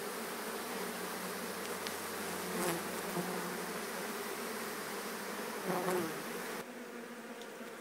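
A mass of honeybees buzzing steadily as a colony is moved from a shed wall into a hive box; it gets a little quieter about six and a half seconds in.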